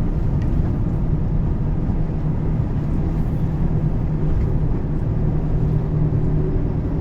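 Volvo truck's diesel engine running under way, a steady low drone with road noise and no change in pitch.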